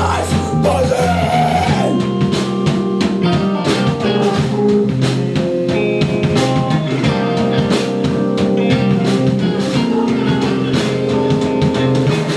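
Live rock band playing an instrumental passage: electric guitar and bass over a drum kit, loud and steady.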